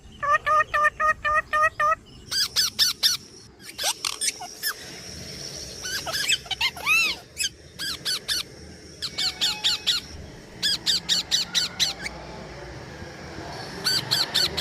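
Parrots calling in quick strings of short, shrill repeated notes, several bursts with brief pauses between them.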